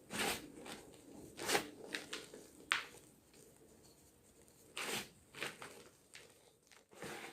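Fresh gym chalk being crunched, with irregular sharp crackles, the loudest about a second and a half and five seconds in, and softer crumbling between them.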